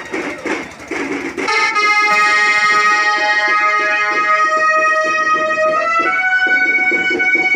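Festival music: drum beats, then about a second and a half in a loud reed instrument comes in, playing a melody of long held notes over the drumming.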